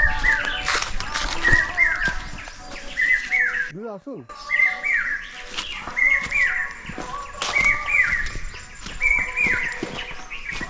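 A bird calling over and over, the same short phrase of quick notes repeated about once a second, with a brief break about four seconds in.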